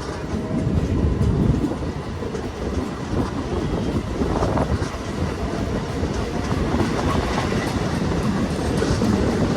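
Train running along the track: a steady noise of wheels on rails.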